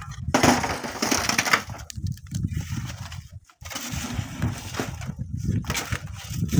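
Strong wind buffeting the microphone in irregular gusts. A loud crunching, crumbling noise comes about half a second in and lasts about a second, followed by shorter bursts.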